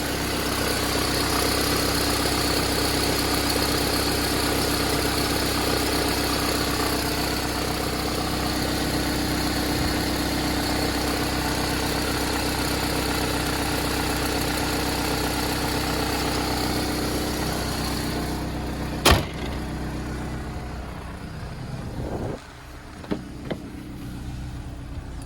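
Toyota 5S-FE 2.2-litre four-cylinder engine idling steadily while warming up, the cold-start crackle now almost gone. About 18 s in the engine sound drops lower, and a sharp single knock follows soon after, with a few lighter knocks near the end.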